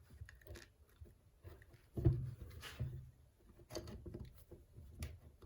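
Scattered quiet clicks and knocks of small starter parts being handled, as the brush plate is fitted into the starter housing, with one heavier knock about two seconds in.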